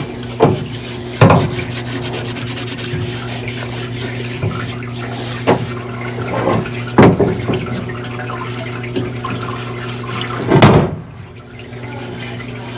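Hand cleaning of greasy engine parts: scrubbing and rubbing in about six short bursts, over a steady low hum.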